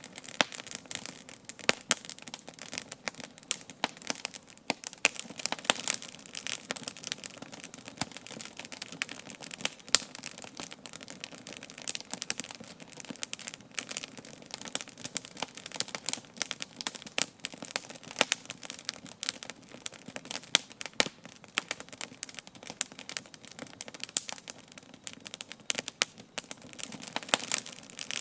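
Wood campfire burning, with dense, irregular crackling and sharp pops from the burning wood.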